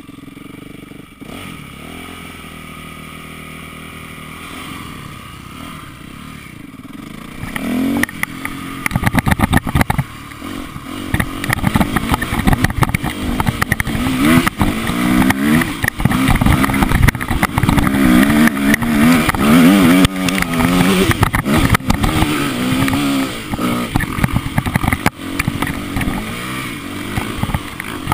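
Motocross bike engine running low and steady, then from about eight seconds in getting much louder and revving repeatedly, its pitch climbing and dropping again and again as the throttle is worked.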